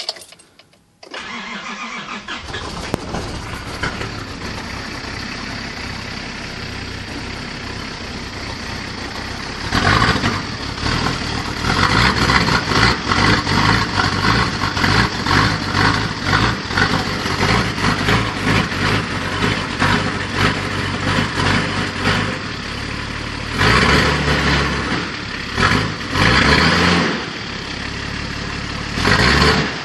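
Nissan Patrol engine starting from cold after a brief crank, catching about a second in and settling into a steady idle. From about ten seconds in it runs louder and unevenly, and near the end it is revved up several times.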